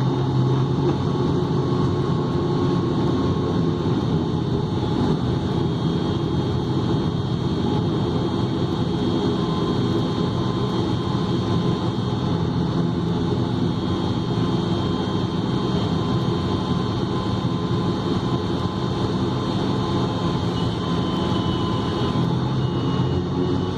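Airliner cabin noise after landing: a steady engine rumble with a thin, constant high whine over it, heard inside the cabin.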